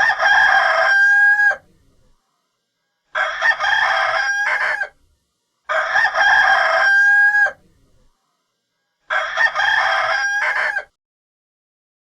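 Rooster crowing four times, each crow a little under two seconds long and ending on a held note, with pauses between.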